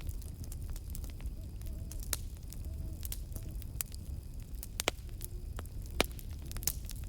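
Campfire crackling with many sharp pops, the loudest about six seconds in, over a low steady rumble of the burning wood. Faint short owl hoots sound in the background in the first half and again later.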